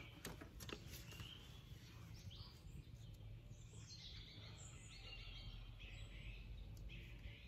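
Faint birds chirping now and then over low steady background noise, with a couple of light clicks in the first second.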